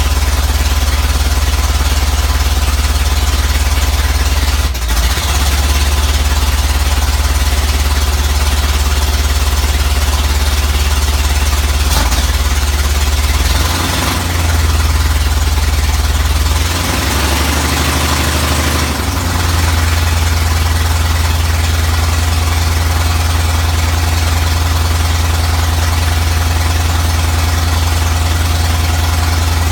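1985 Ford Bronco's 351 Windsor small-block V8 idling roughly, hiccuping and stumbling several times in the first twenty seconds before settling into a steadier idle. The rough idle is the fault being worked on.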